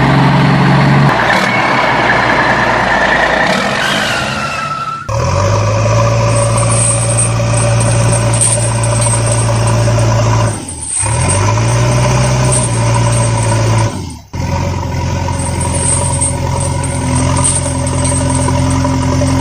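Vehicle engine running steadily, with a low hum, cutting off abruptly and restarting about five, eleven and fourteen seconds in. The first few seconds are noisier, with a whine that shifts in pitch.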